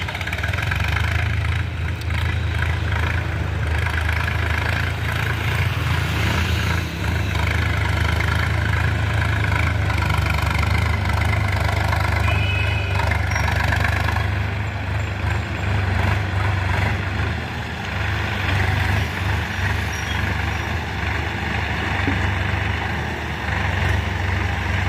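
Sonalika DI 50 tractor's diesel engine running steadily.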